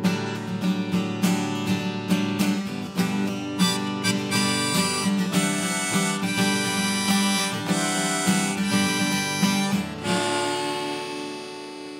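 Instrumental ending of a live acoustic song: strummed acoustic guitar with a harmonica melody, closing on a final chord that rings out and fades from about ten seconds in.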